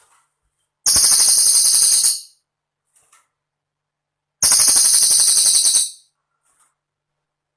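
Cililin bird song: two rapid, high-pitched jingling trills, each about a second and a half long, the first starting about a second in and the second just past the middle, with silence between them.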